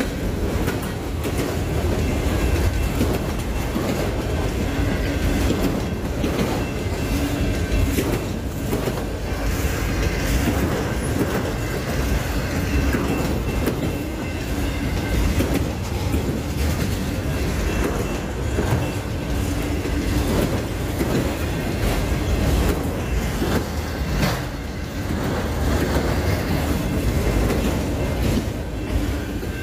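Freight train rolling past at a grade crossing: a steady loud rumble of cars and wheels, with repeated clicks of wheels over rail joints.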